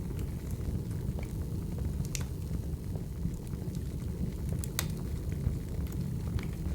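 Firewood burning: a steady low rumble with scattered sharp crackles and pops, the loudest pop nearly five seconds in.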